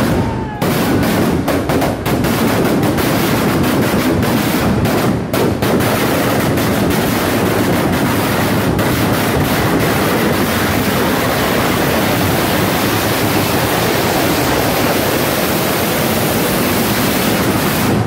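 A long row of ground fireworks going off in a chain, one after another. It starts as a run of sharp bangs packed close together, and after about six seconds the bangs merge into one continuous loud rush of crackling.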